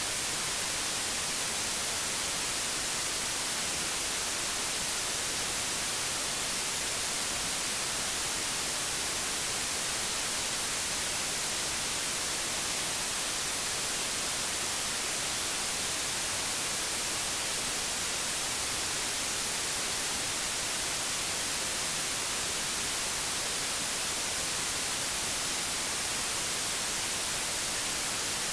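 Television static: a steady, even hiss, brightest in the treble, with no change.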